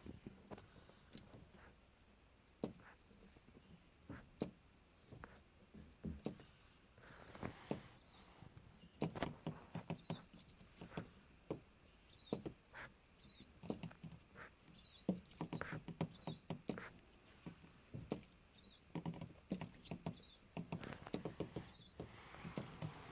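Superb fairy wrens pecking and tapping at a car: a run of light, irregular taps and knocks, with short high chirps every second or two through the second half.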